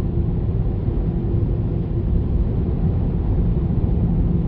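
Automatic car wash air-dryer blowers running, heard from inside the car: a steady, loud rush of air with a low rumble and a faint constant hum.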